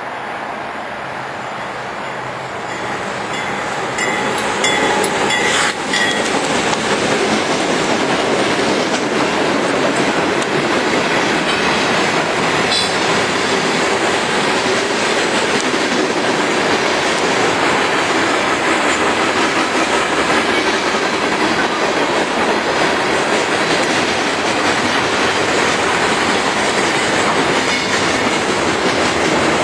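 CSX freight train passing close by. The noise builds about four seconds in as the train reaches the crossing, then holds as a steady rumble and clatter of freight cars rolling over the rails.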